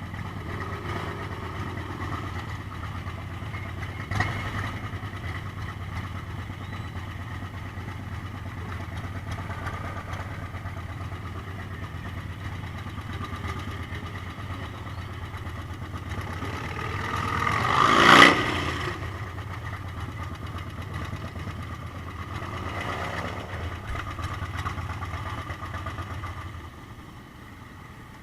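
Motorcycle engine idling steadily, then cut off near the end. About two-thirds of the way through, another motorcycle passes close by, its sound building for a couple of seconds to a sharp peak. A second vehicle passes more faintly a few seconds later.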